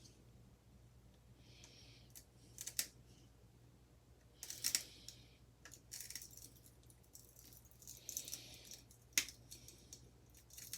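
Faint clinks, clicks and short scrapes of small metal parts and hand tools being handled while a ceiling fan motor is taken apart, a few separate knocks and rasps scattered through.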